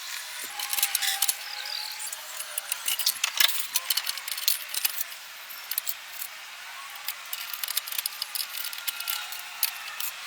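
A quick, irregular string of small light clicks and clinks over a thin hiss, with faint wavering tones in the background.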